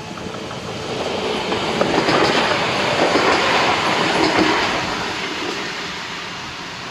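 Stadler Flirt 3 electric multiple unit passing over a level crossing, its wheels clattering over the rails. The noise builds to a peak about two seconds in and fades away over the last couple of seconds as the train goes by.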